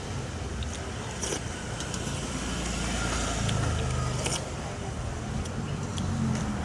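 A motor vehicle's engine running with a low hum that swells a little partway through, with a few light clicks.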